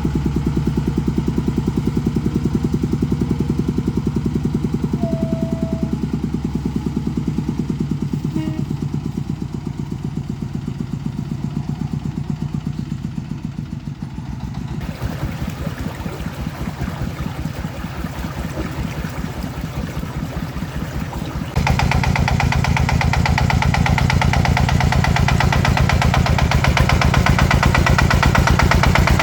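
Farm truck engine running steadily with a rapid, even firing beat. It changes abruptly about halfway through and gets louder about three-quarters of the way in.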